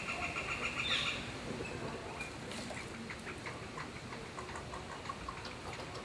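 Birds calling: a rapid, evenly spaced series of short notes that stops about a second in, followed by scattered short chirps.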